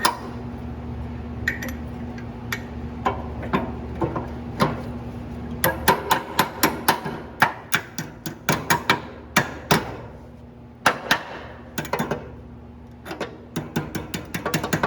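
Hammer blows on steel, a run of sharp, irregular strikes several a second with short pauses between runs, as a replacement plow shoe is worked into place on a Fisher snowplow. A steady low hum underneath fades out about five and a half seconds in.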